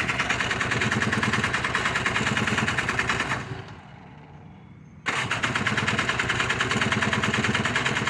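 ATV's electric starter cranking its water-flooded engine in two long bursts, a fast steady churning, with a pause of about a second and a half in the middle. The engine does not catch, the sign of a flooded or fouled-plug engine.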